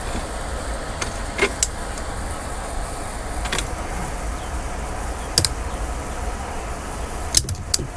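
A few scattered sharp clicks and taps, three in quick succession near the end, over a steady low rumble.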